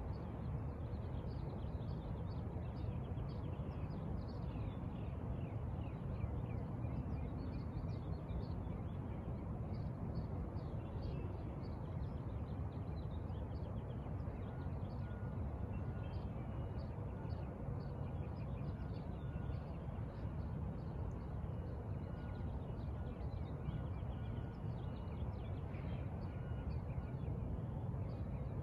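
Birds chirping and calling in quick short notes throughout, over a steady low background rumble.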